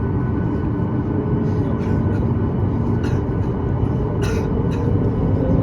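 Cabin noise of a Boeing 737-9 MAX taxiing: a steady low rumble from its CFM LEAP-1B engines at idle and the airframe rolling, with a few faint clicks around the middle.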